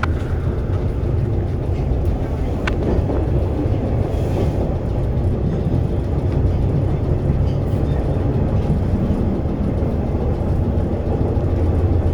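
Orange Line subway car running between stations, heard from inside: a steady low rumble of wheels on the rails, with a single sharp click about three seconds in.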